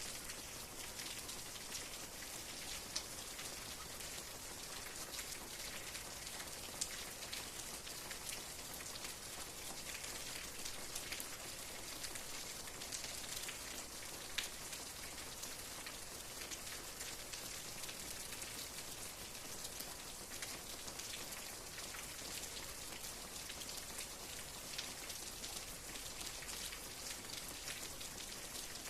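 Steady rain falling, a soft continuous hiss with scattered individual drops ticking on a surface; a few drops land louder, about three, seven and fourteen seconds in.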